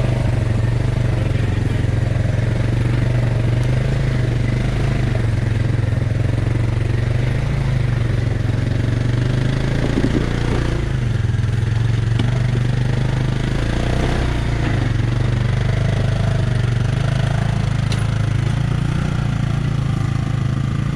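ATV engine running steadily at low revs, with small rises and dips in speed, as a quad crawls over a trail obstacle in low range.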